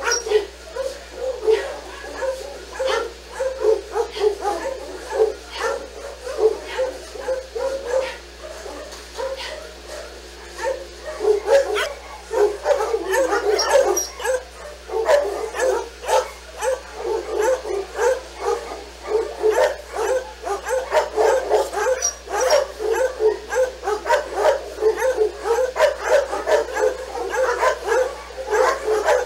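Dogs barking in quick, short yaps, several a second. The yapping thins out for a few seconds about a third of the way in, then picks up again and keeps on.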